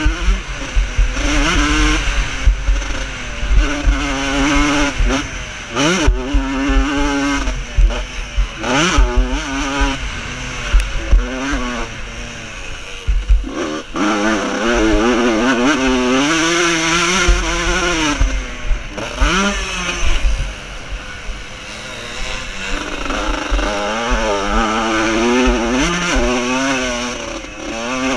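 Vintage motocross motorcycles racing, their engines revving up and falling back through the gears, several bikes overlapping, with quick sharp climbs in pitch around six, nine and nineteen seconds in.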